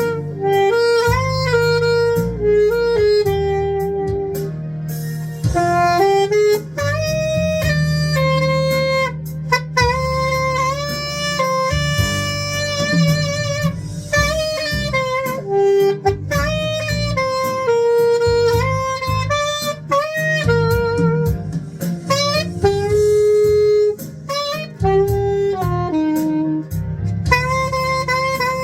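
Saxophone playing a slow ballad melody, with vibrato on its held notes, over a backing track with guitar and bass.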